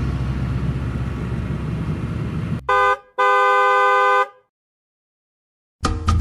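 A low, steady vehicle rumble, then a car horn honks twice, first a short toot and then a longer one. Music starts near the end.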